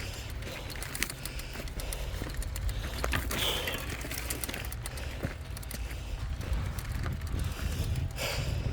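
29er mountain bike ridden uphill over a rough, stony trail: steady rumble with many small clicks and rattles from the bike. The rider breathes hard twice, about three seconds in and near the end.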